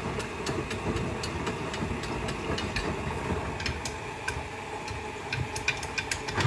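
Front-loading washing machine running with its drum turning and tumbling laundry, a steady mechanical hum, with scattered light clicks and ticks that come more often near the end.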